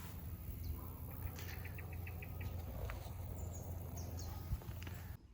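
Faint outdoor ambience: a few short, high bird chirps and a quick run of about six chirps over a low rumble of wind on the microphone, cutting off abruptly near the end.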